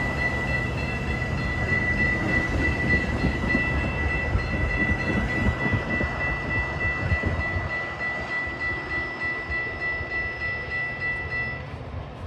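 Metra commuter train moving along the track, with a heavy rumble and wheels clicking over rail joints that fade away after about seven seconds. A steady high-pitched whine runs over it and stops abruptly near the end.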